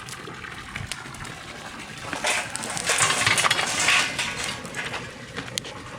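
Metal cookware and utensils clinking and clattering in a few sharp knocks, with a louder stretch of rustling, hissing noise lasting about two seconds in the middle.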